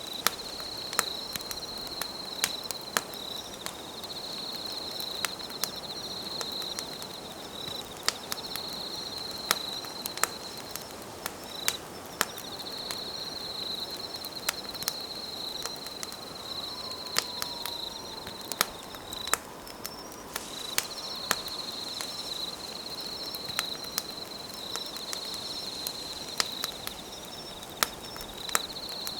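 Campfire crackling, with sharp pops at irregular intervals, over a chirring insect that trills in long phrases broken by short gaps.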